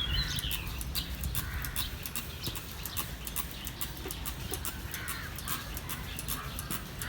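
Birds calling in short, scattered calls over a run of small clicks and taps.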